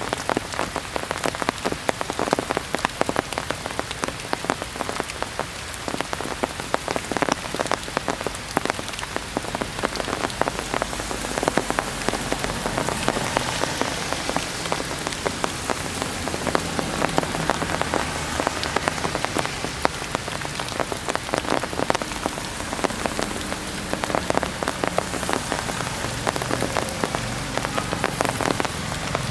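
Heavy rain falling steadily and drumming on surfaces, a dense patter of drops.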